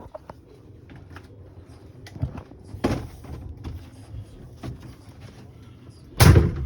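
Door-handling sounds: scattered knocks, then a heavy thump about six seconds in.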